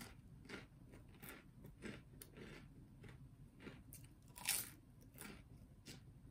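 A person chewing a mouthful of food close to the microphone: faint, irregular crunching chews, about one or two a second, the loudest about four and a half seconds in.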